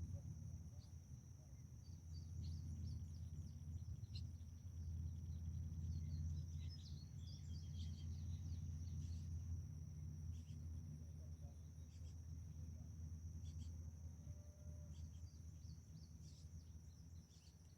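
Outdoor ambience: a steady high-pitched insect drone with scattered short bird chirps, over a low steady rumble.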